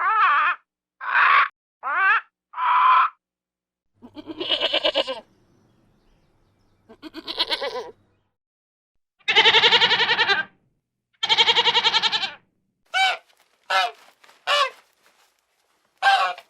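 A series of animal calls. Short cries come first, then two rasping calls, then two long, loud, wavering bleat-like calls, and finally a run of short sharp calls.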